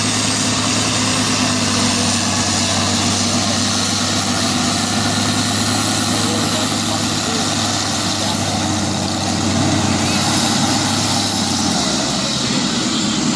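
Pull tractor's engine running hard and steady, its low note dropping about a second before the end.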